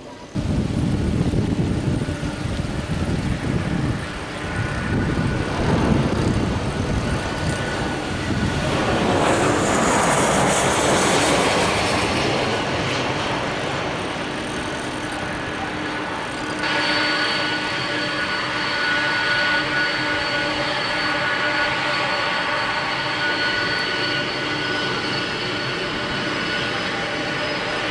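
Boeing 747 jet engines at takeoff power: a loud, deep rumble that starts suddenly, swells into a hiss about ten seconds in, then settles into a steady rumble with several whining tones from about seventeen seconds.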